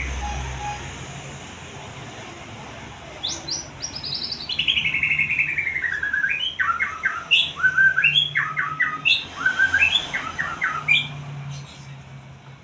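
A songbird singing. About three seconds in it gives a fast descending trill, followed by a run of varied short chirps and whistles that die away near the end.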